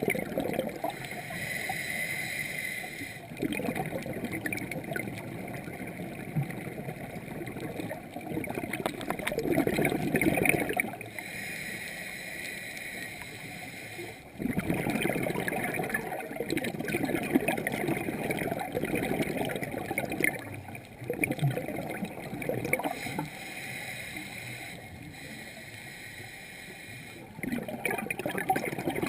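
A scuba diver breathing through a regulator underwater: long gurgling bursts of exhaled bubbles every few seconds, alternating with quieter stretches of hissing inhalation.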